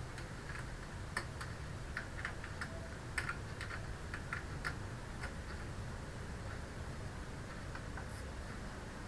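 Computer keyboard keys being pressed: about a dozen short, irregular clicks in the first five seconds, then a few faint ones, over a steady low hum.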